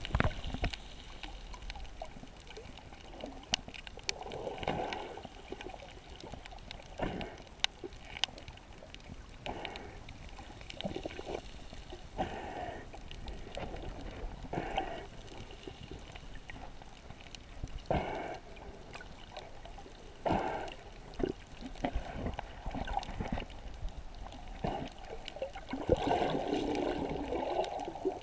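Water sloshing and gurgling around a GoPro camera held in shallow sea water, with scattered sharp clicks and knocks.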